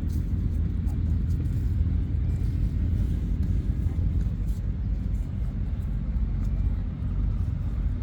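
Motorcycle engines running together as a steady low rumble.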